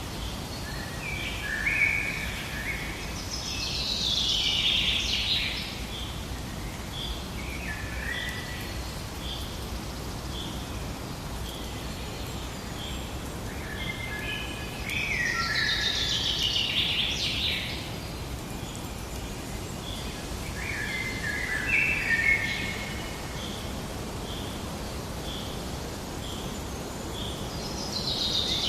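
Birds singing in short, varied phrases that come in bursts every few seconds, over a steady low outdoor background noise. A faint high chirp repeats about three times every two seconds underneath.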